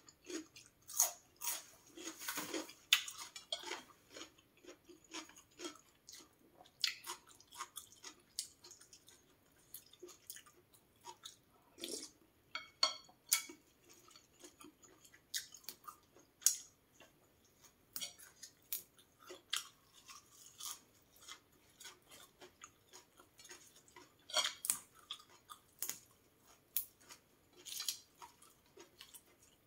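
Close-miked chewing of raw vegetables: irregular crunches and short wet mouth clicks, with a few louder crunchy bites.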